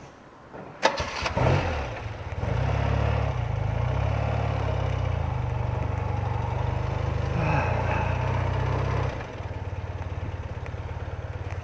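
BMW R80RT's flat-twin boxer engine starting: a click, a brief crank and the engine catching about a second in. It then runs steadily before dropping to a lower, steady idle about nine seconds in.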